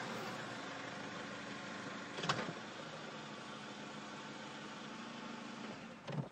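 Car engine idling steadily, with a sharp click about two seconds in and a low thump near the end.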